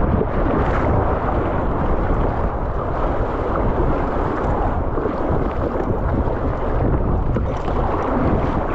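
Steady loud rushing of river whitewater, with wind rumbling on the microphone.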